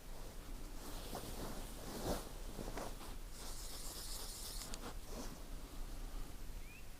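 Faint rustling and scraping of clothing and gear being handled, with a longer hissing rustle a little over three seconds in.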